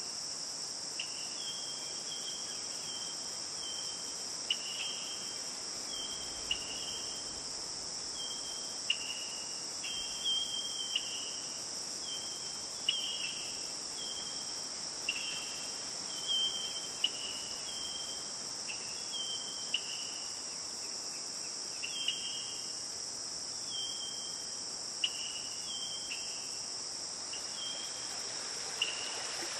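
Night insects, crickets, keeping up a steady high-pitched chorus, with short clear notes from another animal repeating about every second or two, many of them stepping down in pitch.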